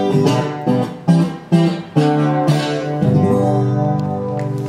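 Guitar strumming the closing chords of a song, the last chord left ringing from about three seconds in.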